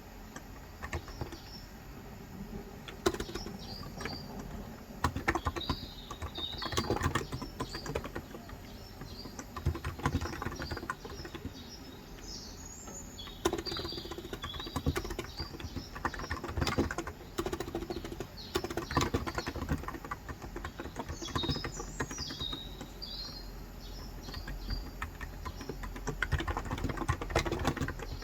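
Steady, irregular keystrokes typed on a Cox Endeavor electro-capacitive (Topre-style, 35 g) tenkeyless keyboard. Birds chirp outside in the background, in short bursts several times.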